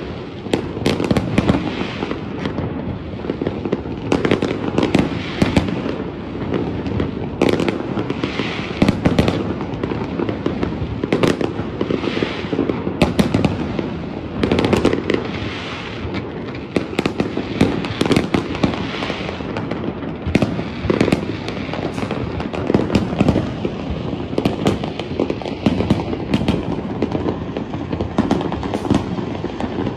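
Fireworks display: many shells bursting in quick, irregular succession, bangs and crackles overlapping over a continuous rumble.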